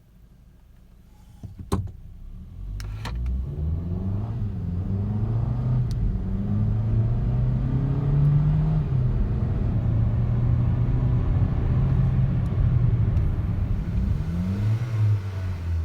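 Hyundai Kona's engine under hard acceleration from a standstill, its pitch climbing and dropping back several times as it shifts up through the gears, after a couple of sharp clicks at the start.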